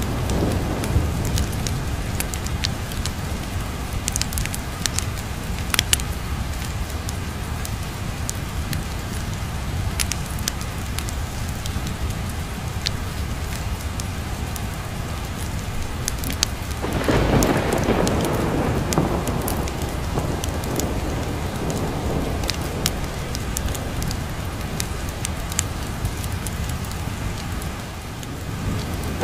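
Steady rain with a roll of thunder that swells about 17 seconds in and fades away over a few seconds. Sharp clicks are scattered throughout.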